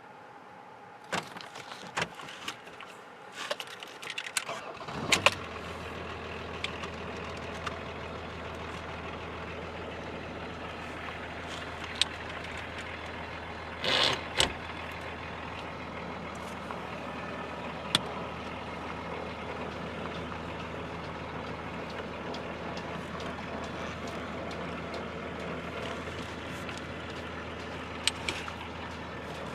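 BMW 525tds turbodiesel straight-six, fitted with a mechanical injection pump, starting about five seconds in after a few clicks and knocks, then idling steadily. There is a brief louder noise near the middle and a few sharp clicks.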